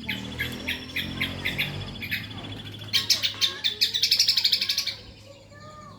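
Kombok songbird singing a fast chattering song of quick repeated high notes. The song gets louder and quicker about three seconds in and breaks off near five seconds.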